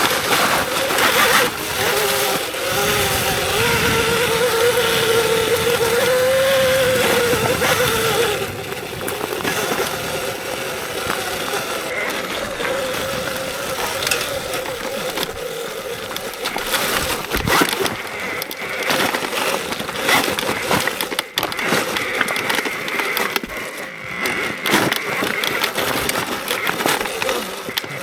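Electric dirt bike riding a trail: the motor's whine wavers up and down with speed during the first eight seconds, over a constant rush of wind and tyre noise, with knocks and rattles from the bike going over rough ground.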